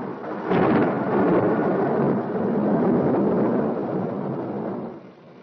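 A loud peal of thunder that breaks suddenly about half a second in, rumbles on for about four seconds and dies away near the end.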